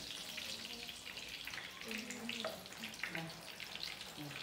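Egg-battered cabbage fritters frying in oil in a pan, a steady sizzle with fine crackles. Faint voices are in the background.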